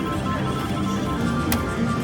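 Electronic jingle music from a Timber Wolf slot machine's game sounds, in short repeating beeping tones, with a sharp click about one and a half seconds in.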